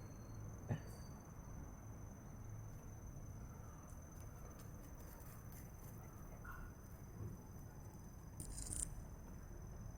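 A steady high-pitched insect trill over a low background rumble, with a single sharp click about a second in and a brief hiss near the end.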